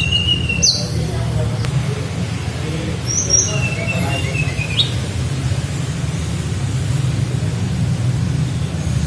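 A tledekan flycatcher giving a few clear flute-like whistles: a flat note at the start, a quick falling note, and a longer level whistle that ends by sweeping upward. A steady low hum runs underneath.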